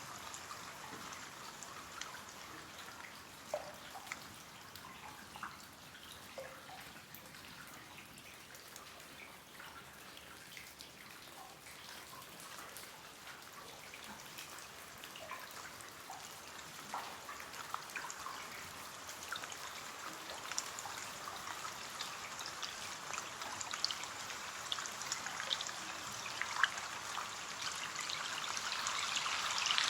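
Rain falling on a window: a steady hiss of rain with many small, separate drop ticks, growing louder over the last ten seconds or so.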